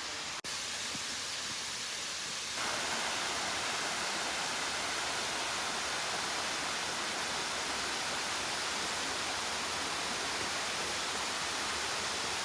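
Waterfall rushing, a steady wash of water noise that steps up in level about two and a half seconds in.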